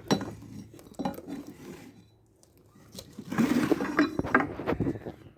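Light metallic clinks and knocks of tools being handled while a cut is set up: a few separate clicks, then a quick cluster of rattling knocks about three to five seconds in.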